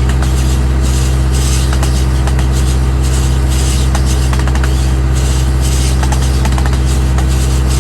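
Farm machinery engine running steadily at constant revs, a loud drone, with a swishing hiss that repeats about once a second over it.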